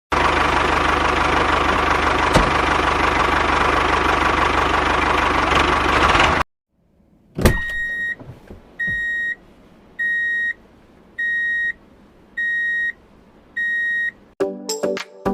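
A small electric motor runs steadily with a constant whine, then cuts off suddenly about six seconds in. After a click, six identical electronic beeps follow, a little over a second apart.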